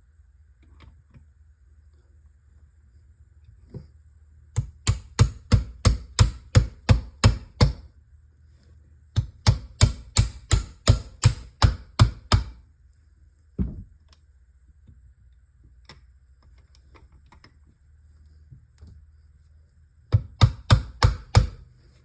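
Runs of sharp, evenly spaced taps on the transmission parts, about four a second: two runs of about a dozen taps each, a single knock between them, and a shorter run near the end.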